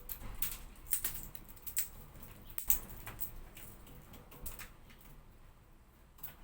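Hawfinch making a series of short, sharp high ticks at an irregular pace, about a dozen of them.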